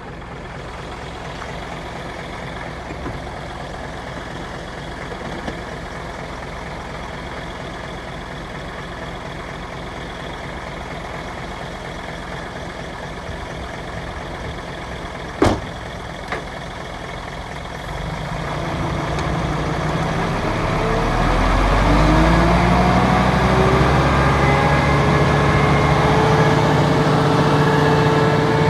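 Heavy construction machine's diesel engine running steadily, with one sharp knock about fifteen seconds in. From about eighteen seconds the revs climb, the pitch rising, and the engine then holds a louder, higher steady run.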